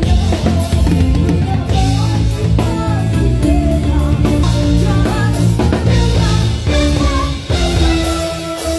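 Live rock band playing through a PA system during a sound check: drum kit and guitar with a singing voice.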